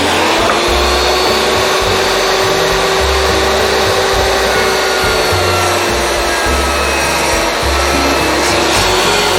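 Power saw running steadily as it cuts through a hardwood floorboard along a marked line, under a faint music bed.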